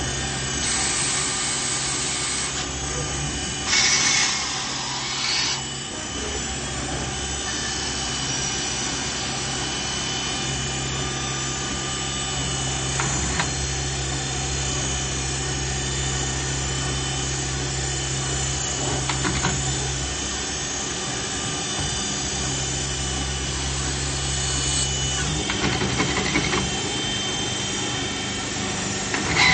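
2001 Traub TNL 26 CNC Swiss-type lathe running, with a steady hum and whine. Two loud bursts of hiss come in the first six seconds, and a few light clicks follow later.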